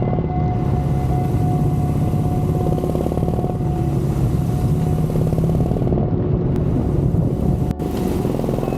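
Harley-Davidson Dyna's V-twin engine running steadily under way, with one very brief dropout near the end.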